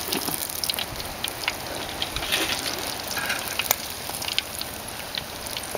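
Masala-coated snail meat deep-frying in hot oil in a steel pan: a steady sizzle with scattered crackles and pops.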